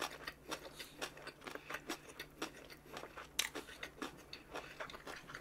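A person chewing food close to the microphone: irregular small clicks and crunches several times a second, with one sharper click about three and a half seconds in.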